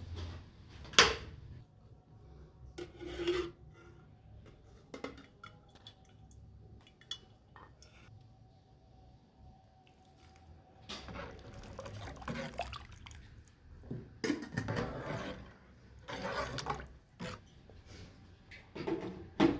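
Cooking pot and metal utensils clinking, knocking and scraping, mixed with liquid sounds. A sharp knock comes about a second in, then scattered clinks, and longer busier stretches of scraping and sloshing in the second half.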